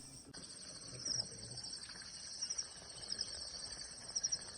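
Quiet insects trilling in the forest: a steady high-pitched buzz, with short bursts of chirps over it every second or so.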